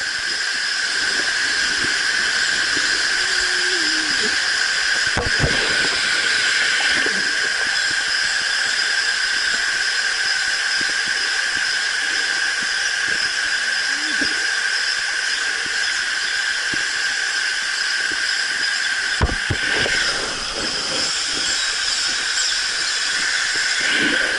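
Waterfall pouring into the canyon river, a steady, loud rushing of falling water.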